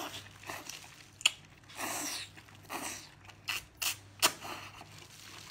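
Mouth eating sounds from a cooked octopus tentacle: short wet slurps as it is sucked in, then chewing with several sharp wet smacks and clicks.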